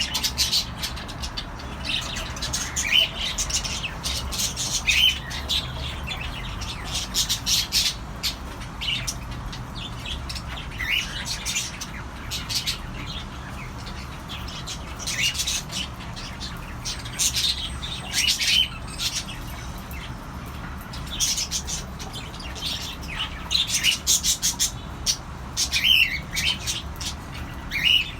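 Cockatiels chirping and squawking: short, bright calls with quick pitch slides, coming every second or two at uneven spacing.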